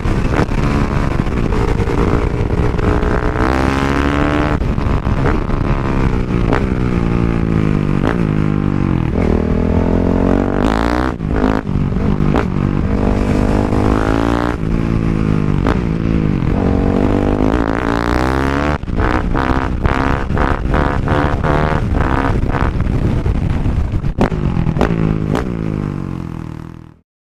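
Motorcycle engine revving hard, its pitch climbing and dropping again and again as it runs up through the gears, with a rapid series of sharp pops over several seconds in the second half; it fades out near the end.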